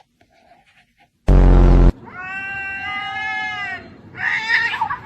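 A very loud, harsh blast lasting about half a second, then a cat meowing: one long drawn-out meow and, near the end, a shorter, rougher one.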